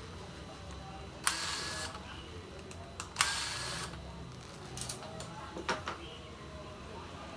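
Repair-bench work on a laptop: two short hissing, whirring bursts about two seconds apart, each starting with a sharp click, then a few light clicks and taps.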